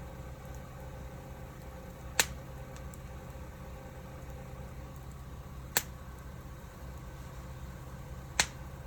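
Firewood burning in an open fire pit: three sharp pops of the burning wood, about two seconds in, near six seconds and near the end, over a low steady rumble.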